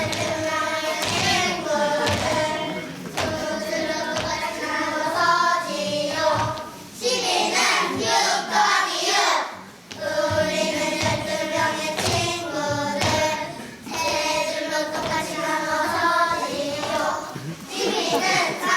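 A group of young children singing together in unison, phrase after phrase, with short breaks between the phrases.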